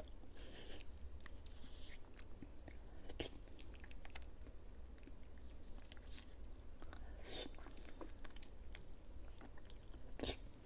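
Close-miked chewing of soft fruit jelly: wet, squishy mouth sounds with scattered smacks and clicks.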